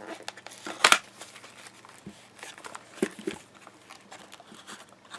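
A puzzle's cardboard box and packaging being opened by hand: scattered crinkling and handling clicks, with one sharp snap about a second in.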